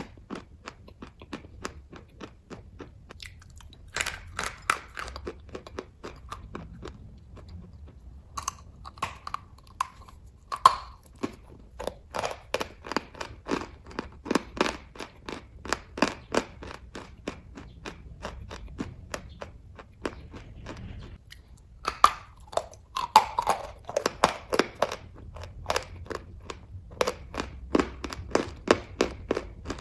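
Close-up chewing of kaju katli, soft cashew fudge, with a rapid run of wet mouth clicks, a few a second. Louder bites and chewing come in bursts about 4 s, 10 s and 22 s in.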